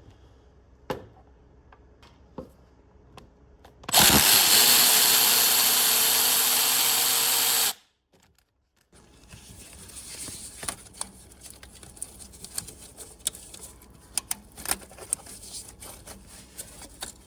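A power tool running steadily for about four seconds, then stopping abruptly, with light tapping and tool clatter before and after.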